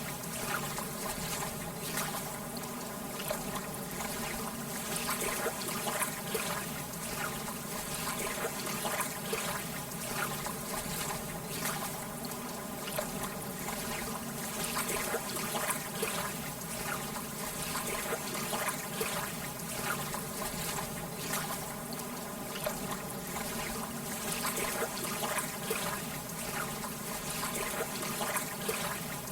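Lake water gently lapping at the shore: a steady wash of small splashes and trickles, with a light rush of air behind it.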